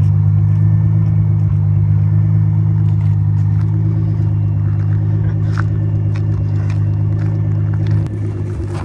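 Car engine running at a steady speed, a loud low drone with no revving. It dips briefly about eight seconds in.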